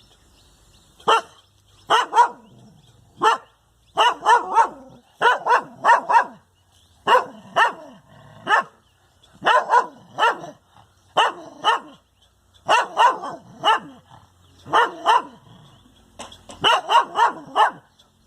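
A dog barking over and over, in single barks and quick runs of two to four, with short pauses between the runs.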